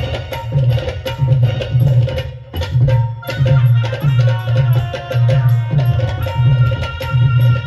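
Instrumental Marathi folk music led by a dholki hand drum playing a steady, repeating beat of deep strokes and sharp slaps. From about three seconds in, sustained melody notes are held above the drumming.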